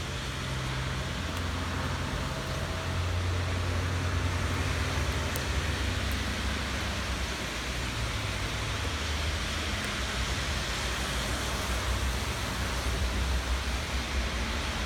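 Steady rain falling, an even hiss, over a low rumble that comes and goes underneath, with a few faint drip ticks.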